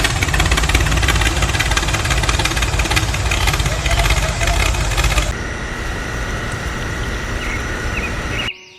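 Small petrol engine of a homemade mini tractor running, with a dense, rumbling clatter. About five seconds in the sound changes to a steadier running note with a thin high whine, then cuts off abruptly near the end.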